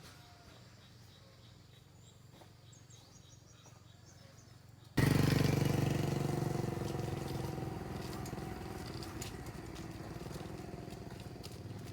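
Faint background for about five seconds, then an engine suddenly starts sounding loud and runs on steadily, slowly easing in level.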